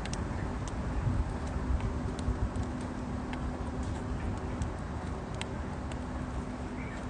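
Wood campfire crackling: sharp, irregular pops and ticks over a steady low rumble.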